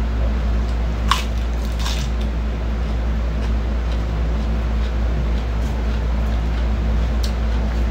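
Crisp lettuce leaves being bitten and chewed, with a few short crunches about one and two seconds in, over a steady low hum.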